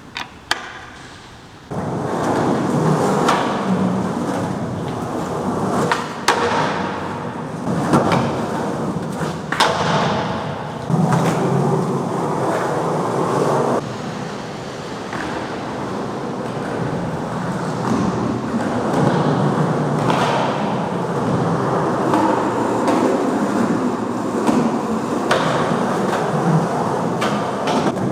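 Skateboard wheels rolling over a concrete garage floor in a long continuous ride, with several sharp clacks and knocks from the board along the way.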